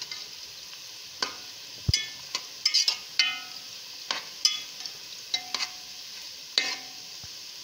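Karela (bitter gourd) slices sizzling as they fry in hot oil, being browned to golden, with a spatula repeatedly clicking and scraping against the pan as they are stirred.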